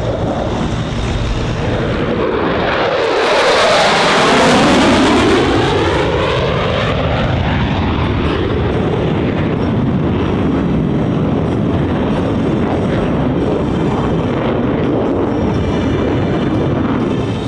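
Boeing EA-18G Growler's twin F414 turbofan jet engines passing by on a low pass. The sound swells to its loudest about four seconds in with a falling sweep in tone, then carries on as steady jet noise as the jet moves away.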